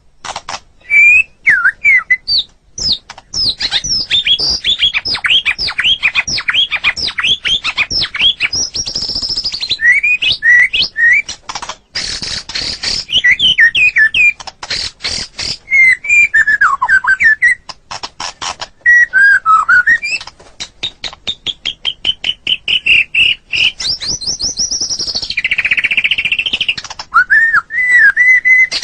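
White-rumped shama (murai batu) singing a long, varied song: clear whistled notes and fast repeated trills, with quick rising and falling sweeps and short gaps between phrases.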